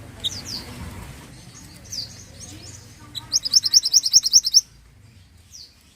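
Mantenan songbird singing: short high down-slurred chirps, then a loud rapid trill of about a dozen evenly repeated notes lasting about a second and a half, past the middle.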